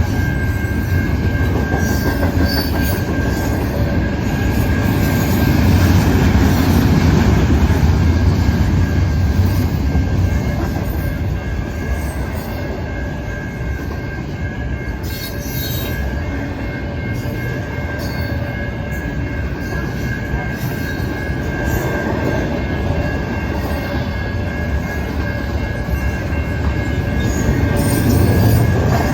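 BNSF intermodal freight train rolling past with a steady low rumble from its wheels and cars, over a continuous high-pitched wheel squeal.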